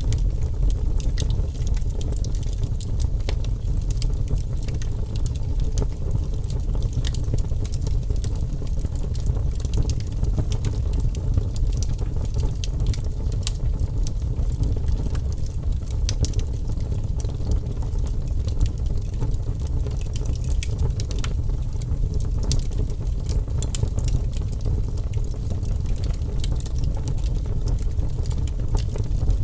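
Fire burning in a fireplace: a steady low rumble with frequent small crackles and pops scattered irregularly.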